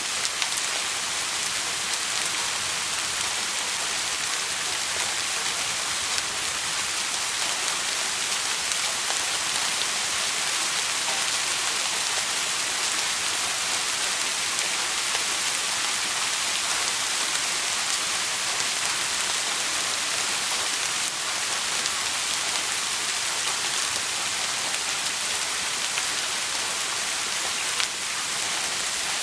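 Steady rain falling, a dense, even hiss with scattered sharp drop ticks.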